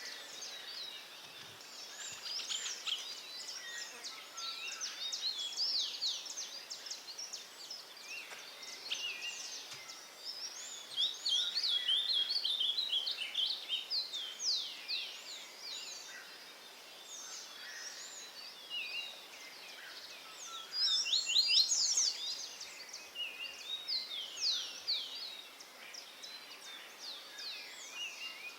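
Several songbirds singing and chirping together: many quick, high chirps and falling notes overlapping, with louder rapid trills about a third of the way in and again about three quarters through.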